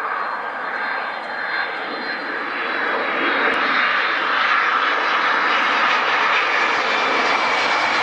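Airliner jet engines, a loud, dense rushing noise that builds over the first few seconds and then holds steady.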